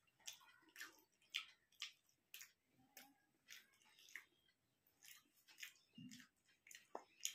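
Faint eating sounds: soft, wet mouth clicks of chewing rice, about two a second, with fingers working rice in a steel plate and a dull knock about six seconds in.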